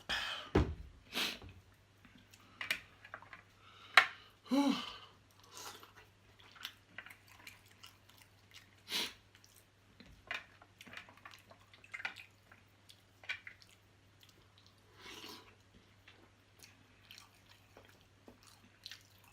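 Close-miked chewing and lip smacking of a person eating a seafood boil of crab, corn and potatoes. It comes as irregular short smacks and clicks.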